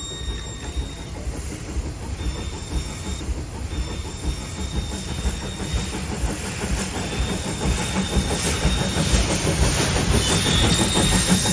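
HO-scale model steam locomotive (Jouef 140 C38) and coaches running on layout track: a dense, rapid clicking of wheels on the rails with a thin steady whine. It grows louder over the last few seconds as the train comes closer.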